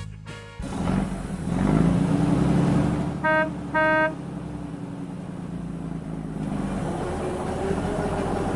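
A vehicle engine sound effect revving up, then settling into a steady hum, with two short horn beeps about three and four seconds in.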